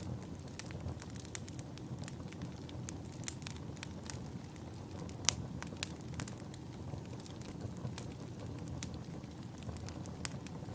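Wood fire in a fireplace crackling: irregular sharp pops and snaps over a steady low rumble of burning, with one louder pop about five seconds in.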